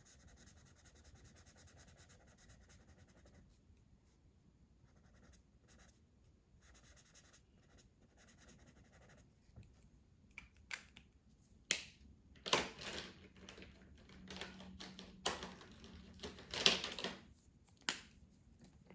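A colouring tool scratching on paper: faint steady strokes at first, then from about halfway a run of sharp clicks and louder scratching strokes.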